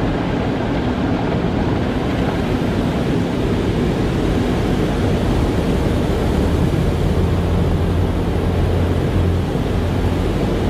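Car wash machinery running: a steady rush of spraying water and equipment noise, with a low hum that swells about halfway through.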